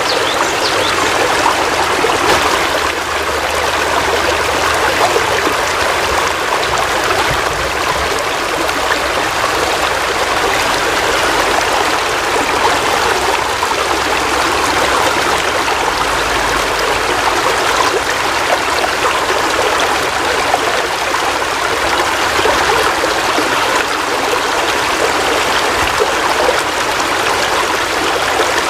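Heavy rain falling steadily, a dense, even hiss of many drops that holds at the same loudness throughout.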